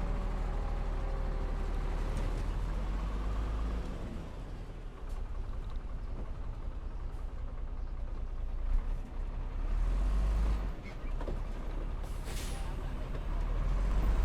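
Diesel engines of a bulldozer and a heavy dump truck running with a deep, steady rumble. A short air hiss comes about twelve seconds in.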